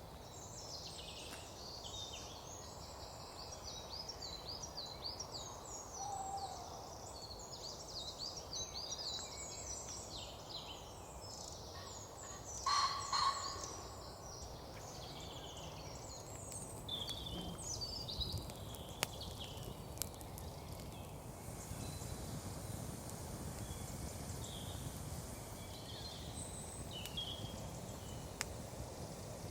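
Woodland birdsong: many small birds singing and chirping over a steady low background hiss. About twelve seconds in, one bird gives a loud two-note call.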